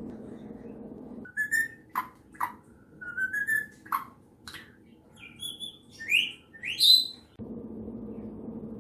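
A pet bird chirping and whistling: a run of short chirps and whistles starting about a second in, ending in two loud rising whistles. A steady low hum is heard before and after the bird sounds.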